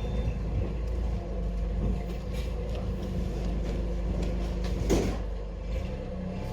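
A steady mechanical hum runs throughout, with scattered knocks and clatter of goods being handled during unloading. The loudest, sharpest knock comes about five seconds in.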